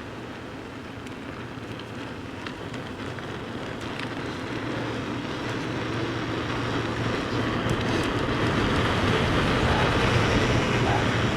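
Steady rumble of riding: wind on the microphone and tyres on the track, with a low hum, growing gradually louder over the seconds.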